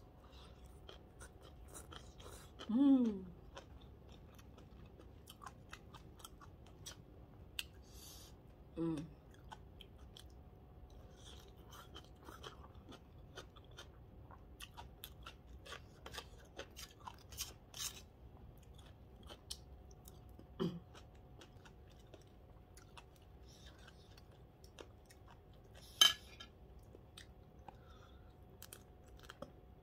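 Close-up eating sounds of papaya salad: wet chewing and small crunches, many soft clicks scattered throughout. A short hummed 'mm' falls in pitch about three seconds in, brief murmurs follow near nine and twenty-one seconds, and a sharp click comes about 26 seconds in.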